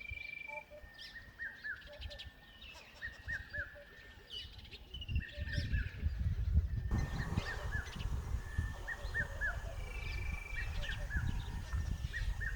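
Birds calling along the river: a run of short, repeated chirps, mixed with a few brief whistled notes. A low rumble comes in about five seconds in.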